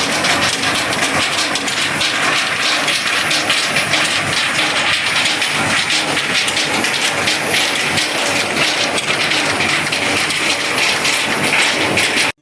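Loud, steady rushing noise thick with small crackles and clicks, cutting off suddenly at the end.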